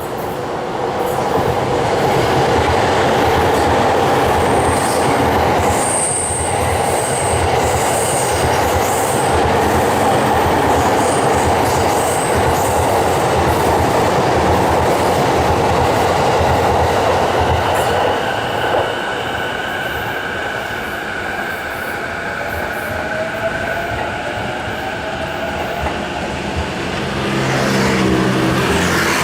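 Train of E26-series sleeper cars behind an EF510 electric locomotive passing close by: a loud, steady rumble of wheels on rail with clatter over the joints and brief high wheel squeals early on. The rumble eases somewhat about two-thirds of the way through, when a steady whine comes in, and rising whining tones join near the end.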